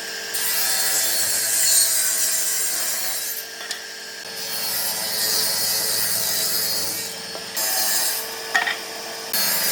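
A power tool sanding wood in long passes of a few seconds each, with short breaks between them. A steady motor hum carries on underneath throughout.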